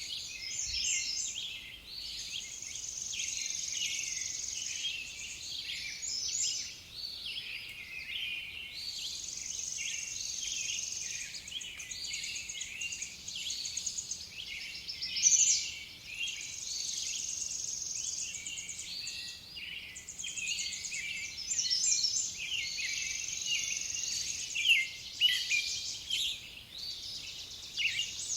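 Several songbirds singing at once, a dense mix of chirps, warbles and trills, with a high, fast buzzing trill that starts and stops every few seconds.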